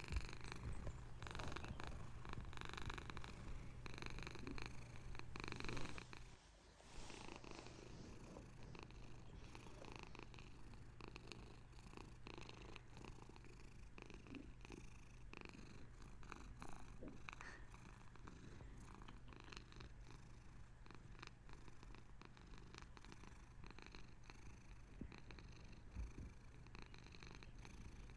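Bengal cat purring steadily with a fine rapid pulse. The purr breaks off briefly about six seconds in, then carries on more quietly.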